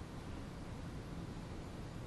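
Steady outdoor background noise: a low rumble with a faint hiss over it, with no distinct event.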